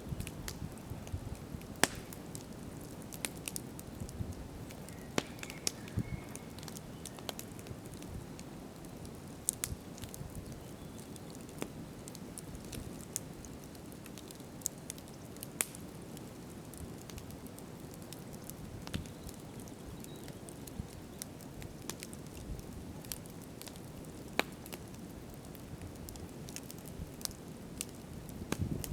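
Wood campfire burning: irregular sharp crackles and pops over a low steady rush of flame.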